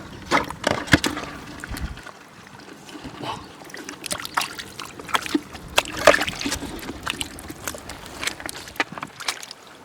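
Water sloshing and splashing irregularly, with many small sharp splashes scattered through.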